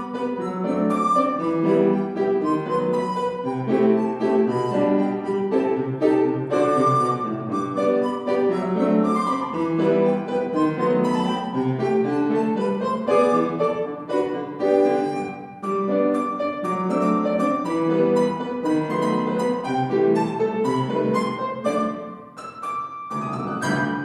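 Piano playing a lively short children's piece in quick, separate notes, ending on a final chord near the end that rings out and fades.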